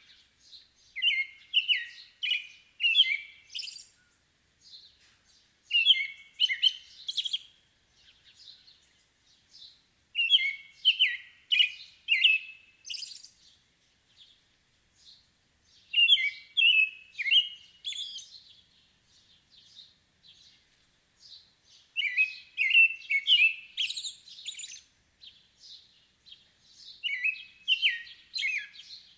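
Birdsong: a songbird repeating a short phrase of quick, clear chirping notes about six times, with pauses of a few seconds between phrases and softer, higher calls in the gaps.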